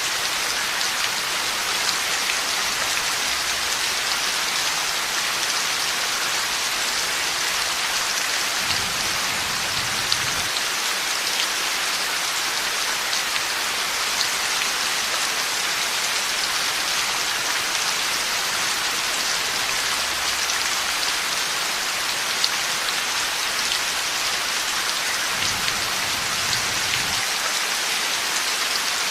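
Heavy rain falling steadily, an even hiss with scattered ticks of individual drops.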